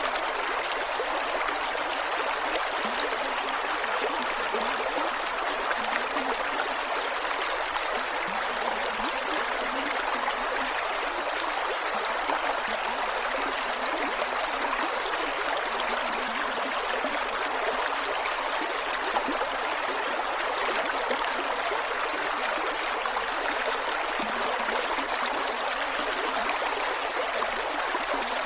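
Creek water flowing and gurgling over rocks, a steady, even rush of running water.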